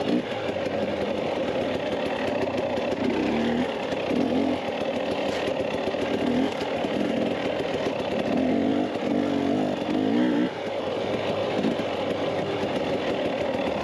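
Dirt bike engine running under way, its revs rising and falling, over a steady rush of noise, with a brief drop in level about ten seconds in.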